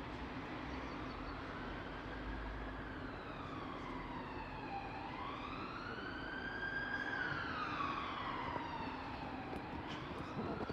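Emergency vehicle siren sounding a slow wail, its pitch rising and falling over several seconds, twice through, over a steady background hiss.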